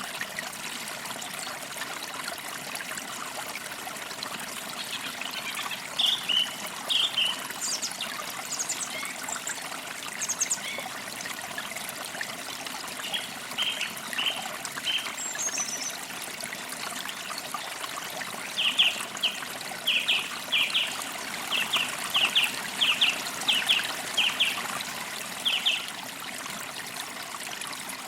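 Forest creek flowing steadily, with small birds chirping over it: a few scattered short chirps and high notes in the first half, then a quick run of a dozen or so chirps in the second half.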